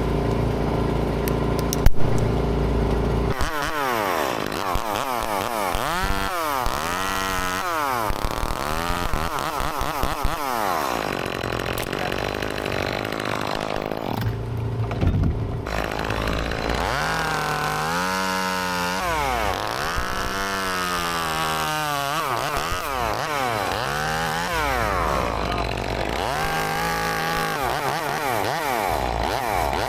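Gas chainsaw revving up and down again and again as it cuts wood, after a few seconds of a steady drone; a sharp knock about two seconds in.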